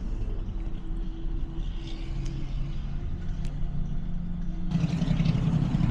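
Car running on the road, heard from inside the cabin: a steady low engine-and-road hum that abruptly grows louder and fuller near the end.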